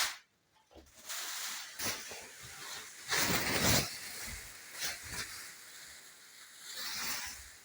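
Plastic-film dust curtain rustling and crinkling as it is handled and pushed aside at its overlapping passage, in several uneven bursts, the loudest about three seconds in.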